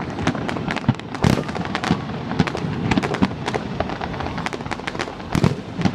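Fireworks going off in quick, irregular succession: a dense crackle of sharp bangs, with heavier booms about a second in and again near the end.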